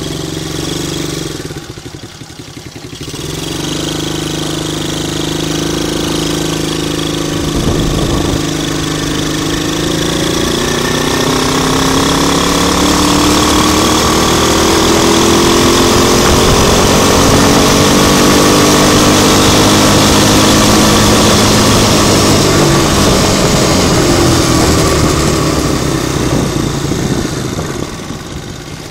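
125 cc quad bike engine running as it is ridden: a brief drop in level about two seconds in, then the engine note rises steadily as it accelerates and holds loud, with wind and road noise throughout.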